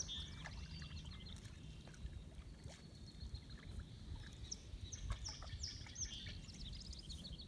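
Birds singing: a run of high chirps and short down-slurred notes, some in quick trills, over a low steady rumble.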